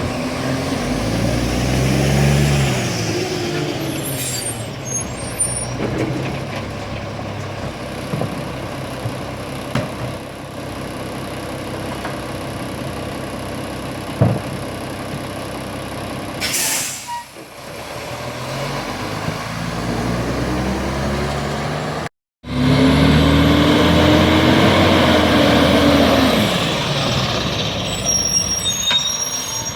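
Garbage truck engine revving up and falling back as it packs a load, with a short hiss of air brakes about 17 seconds in and the engine revving up again near the end.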